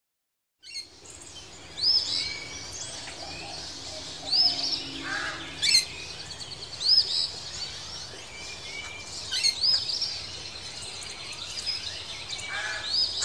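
Woodland birds calling, one of them repeating a short, high, arching chirp every two to three seconds among other scattered calls, over a steady background hiss. The sound begins about half a second in, after a moment of silence.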